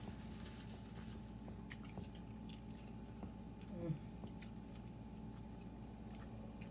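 Two people chewing pizza, with soft scattered mouth clicks, over a faint steady hum. A short hummed vocal sound falls in pitch a little under four seconds in.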